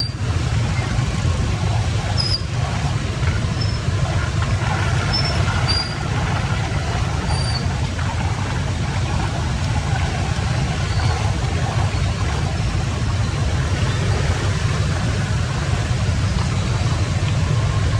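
Steady rushing of water, heavy in the low range and unbroken, with a few faint short high chirps in the first several seconds.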